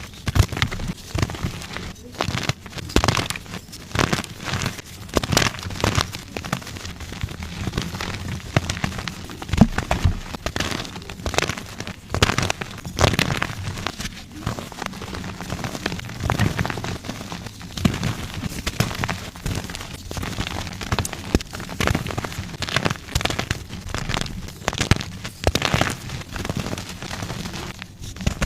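Gym chalk being crushed and crumbled: a steady run of dry, irregular crunches and crackles.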